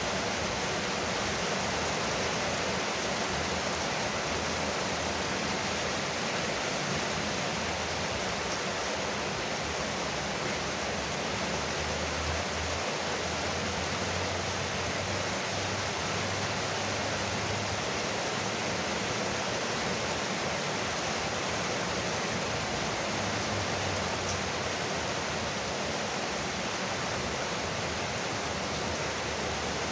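Rain falling steadily on a porch roof, an even, dense patter. A faint low rumble comes in briefly around the middle and again about two-thirds through.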